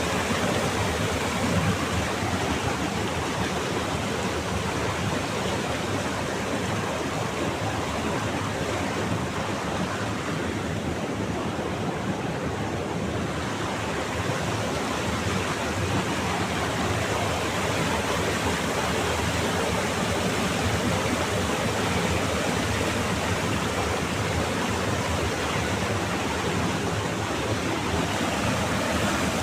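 Ghagra river rushing over rocks in small falls and rapids, a steady, even water noise.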